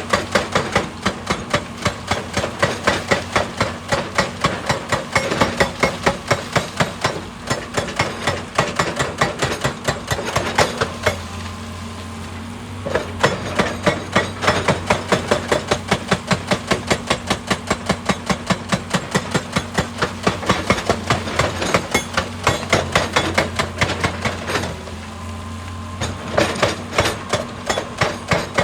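Excavator-mounted hydraulic rock breaker hammering rock: rapid, even blows several times a second over the steady drone of the excavator's diesel engine. The hammering stops twice for a second or two while the engine keeps running.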